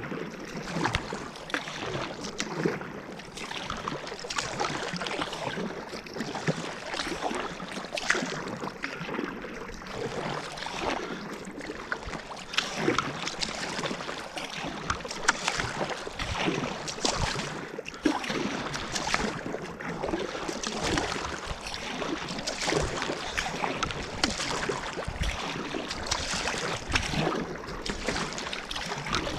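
Water splashing and lapping against a kayak on the water, with many small irregular splashes.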